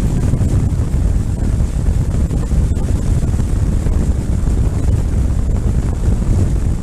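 Wind buffeting the microphone of a moving motorcycle: a loud, steady low rumble of wind and road noise.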